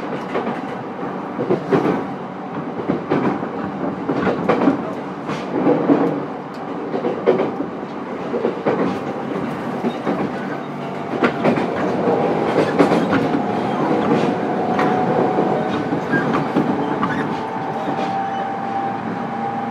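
JR East E231 series commuter train running, heard from inside its motor car: wheels clacking over rail joints with a steady rumble. Past the middle a steady motor whine comes in and holds.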